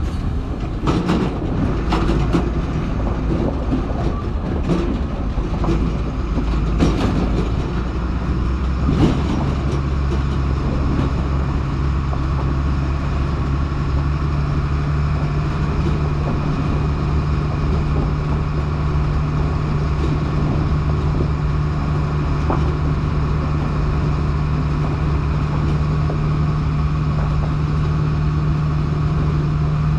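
Stewart & Stevenson M1078 military truck's diesel engine running under way, with clanks and rattles through the first nine seconds or so. After that the engine note changes and settles into a steady drone.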